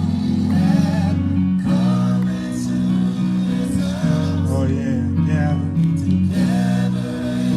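A gospel church band playing, with bass and guitar, and a wavering melody line that sounds in stretches over the steadily changing bass notes.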